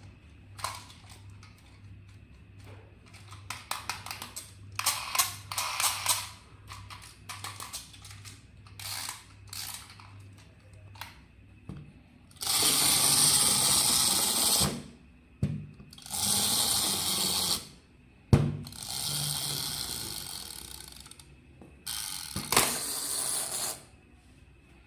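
Toy packaging being handled during an unboxing: a run of small clicks and rustles, then four long rasping noises of about two seconds each, with a sharp knock between the second and third.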